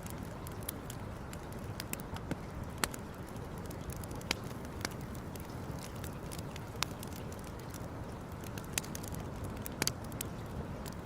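Campfire burning, crackling with irregular sharp pops over a steady low rush.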